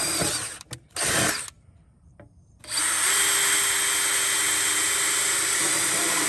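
Power drill boring holes for a bolt-on mount. It runs, stops about half a second in, gives a short burst at about a second, pauses, then runs steadily from about three seconds in.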